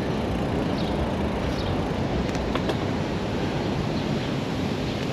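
Steady rushing wind and rolling road noise on a chest-mounted action camera's microphone while riding a gravel bike through city streets, with a few faint short high chirps early on.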